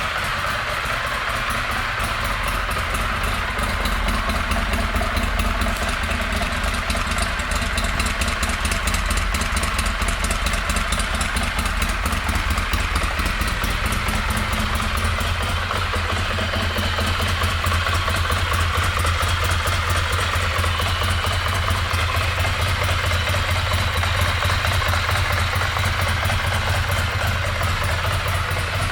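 Ducati Monster 696's air-cooled L-twin engine idling steadily, a little louder after about four seconds.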